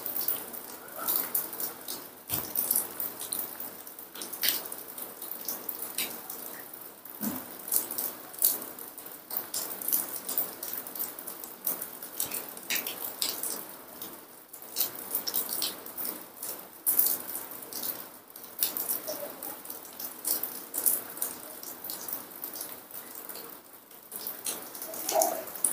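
Heavy rain outside, heard as an irregular patter of sharp drops.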